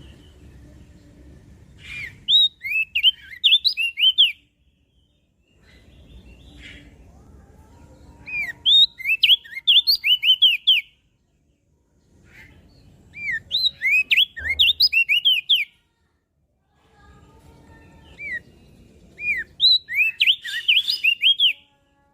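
Opior jambul (crested dark-eye) singing: four loud bursts of rapid, sweeping, chattering notes, each about two seconds long, separated by pauses of a few seconds.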